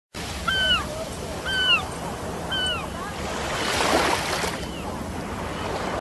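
A bird calls three times, about once a second, each call a short arched whistle that falls in pitch. Under the calls runs a steady rushing noise that swells briefly a little past halfway.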